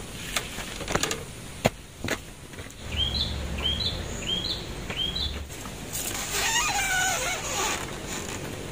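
A few sharp knocks and taps, then a bird gives four short, identical chirps about half a second apart. A longer, wavering call follows about six seconds in.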